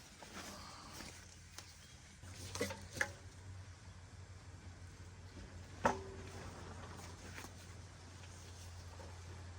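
A few scattered knocks and clunks, the loudest about six seconds in, over a low steady hum that comes in about two seconds in.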